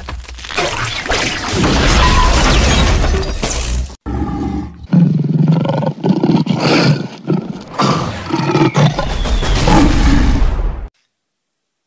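Animal roars and growls played as edited sound-effect pieces: a long loud stretch breaks off about four seconds in, then more roaring in shorter pieces, cutting off abruptly near the end.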